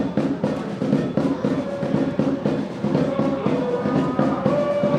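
Drums beating fast and steadily, several strokes a second, with a melody of held notes over them.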